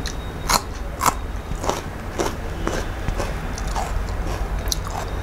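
Crisp bites into a raw green chili: two loud crunches about half a second and a second in, followed by softer crunching as it is chewed.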